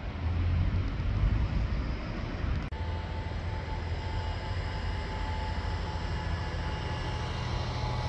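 Train running at the station: a steady low rumble, with a brief break about three seconds in, after which a steady high whine joins the rumble.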